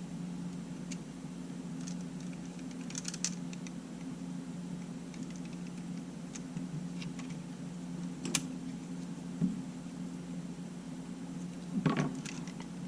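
Scattered small clicks and taps of tools and small camera parts being handled during disassembly, with a short cluster of clicks near the end, over a steady low hum.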